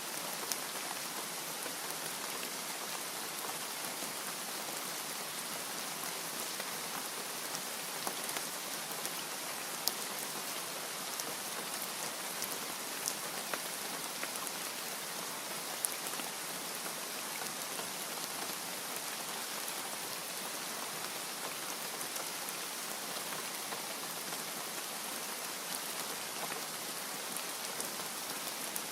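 Steady rain falling, an even hiss with scattered louder drops ticking on a hard surface.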